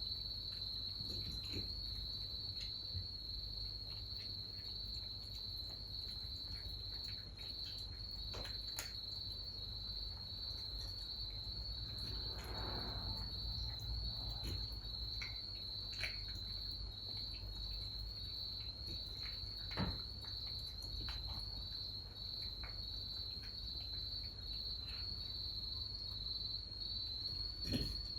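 Crickets chirping in a steady, high, rapidly pulsing trill, with a few scattered light taps and clicks.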